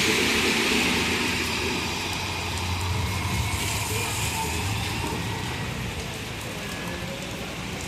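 Street traffic in the rain: a motor vehicle's low engine hum fading away over a steady hiss of rain and wet road noise.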